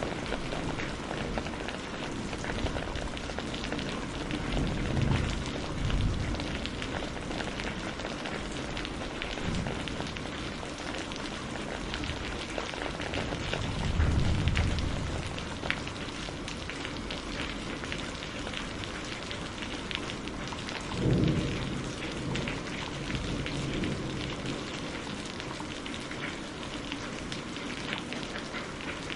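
Steady rain with a dense patter of drops, and a few low rumbles of thunder, the strongest about halfway through and again about two-thirds of the way in.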